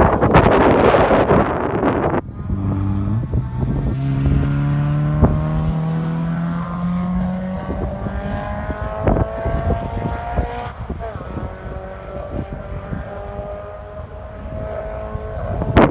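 Open-wheeled track car's engine passing close with a loud rush, then pulling away: its note rises in pitch in several stretches, broken by gear changes, and grows fainter as the car gets further away.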